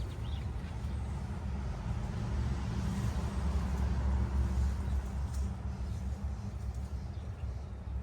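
Lawn mower engine running steadily, a low rumble that swells a little around the middle.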